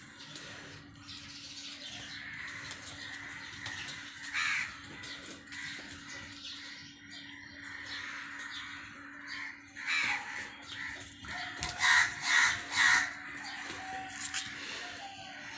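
Birds calling at intervals over a faint steady hum, with three loud harsh calls in quick succession near the end.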